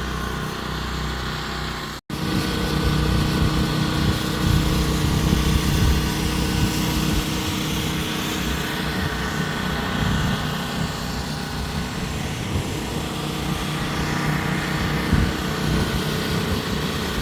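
Small portable generator engine running steadily at a constant speed, supplying power during an outage. The sound breaks off for an instant about two seconds in, then carries on.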